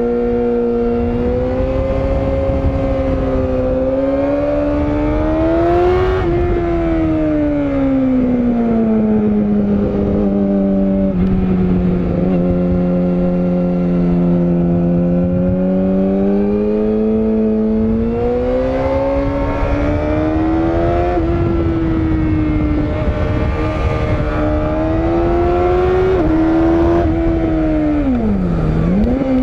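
Yamaha YZF-R6 (RJ27) inline-four engine under way on a climbing road, its pitch rising and falling with the throttle. Near the end the note drops sharply and climbs straight back up.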